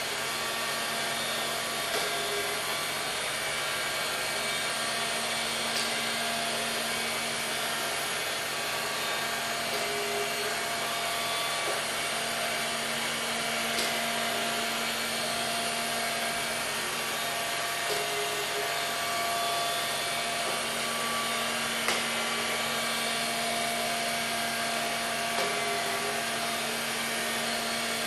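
Robotic vacuum cleaner running steadily, a constant motor whir and suction hiss with a few faint clicks now and then.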